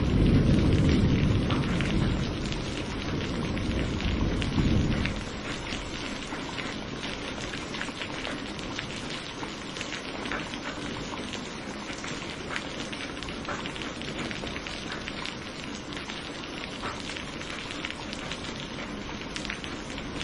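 Steady heavy rain with many fine drop ticks, under a low roll of thunder that fades out about five seconds in.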